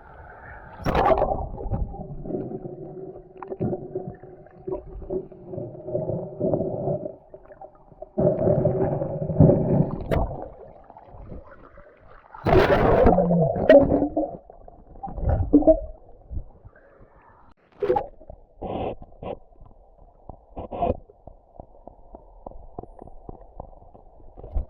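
Water splashing and gurgling in irregular bursts, with a few sharp knocks and clicks in the second half.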